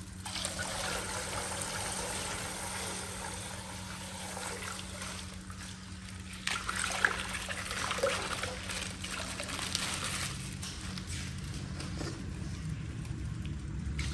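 Coloured water pouring and trickling out of a punctured plastic ice pack, with a few sharp clicks about halfway through.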